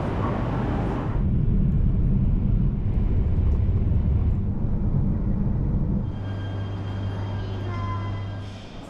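Train rumble: a loud low rumble that changes abruptly about a second in and again about six seconds in, after which a steadier low hum carries faint thin high tones.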